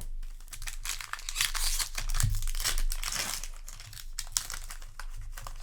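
Crinkling of a foil booster-pack wrapper being handled and crumpled, a dense crackle that is heaviest in the first few seconds and lighter toward the end.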